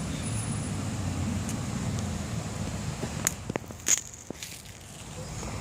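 Low wind rumble on the microphone, then a few sharp crackles and clicks about three to four seconds in, the loudest a little before four seconds, like snack-bag or food handling close to the microphone.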